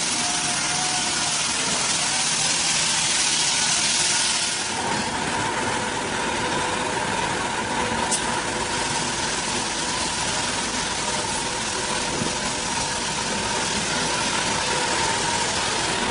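An engine-driven machine running steadily. About five seconds in its sound shifts, with less hiss and a deeper rumble.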